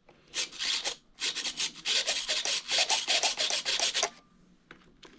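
Servos of a foam RC airplane chattering with a rapid scratchy rasp, about eight strokes a second. It comes as a short burst and then a stretch of about three seconds while the elevator is worked. The owner suspects wires are blocking the servos.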